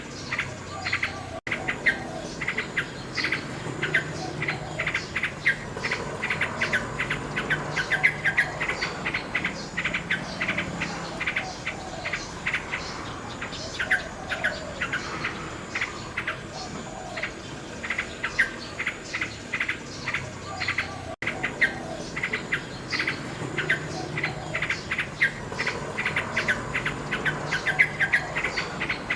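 Common nightingale singing in rapid bursts of chirps, clicks and trills, over a steady chirring of insects. The sound cuts out for an instant twice, once near the start and once about two-thirds of the way in.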